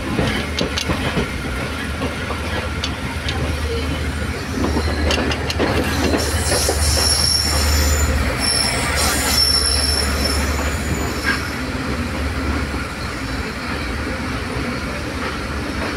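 Train wheels rolling through a yard of points and crossings, heard from inside the carriage: a steady low rumble with sharp clacks over the rail joints. A high-pitched wheel squeal comes in about halfway through.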